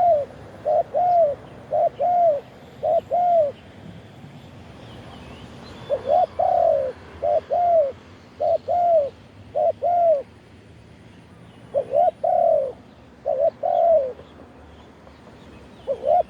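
Spotted dove cooing: runs of loud, arched coos, many in close pairs, broken by pauses of a second or two, with a new run starting near the end. Other birds chirp faintly in the background.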